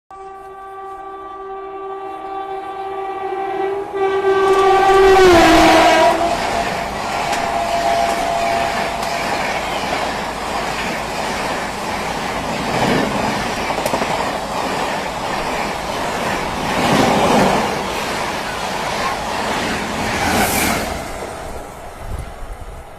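WAP-7 electric locomotive sounding a long horn blast that drops in pitch as it passes, then the train rushing by with wheels clattering over the rail joints, fading away near the end.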